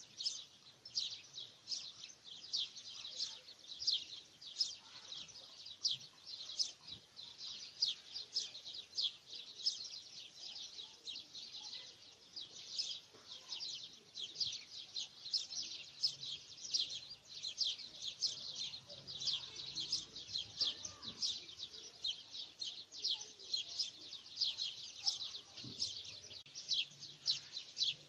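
Small birds chirping: an unbroken run of short, high chirps, several a second.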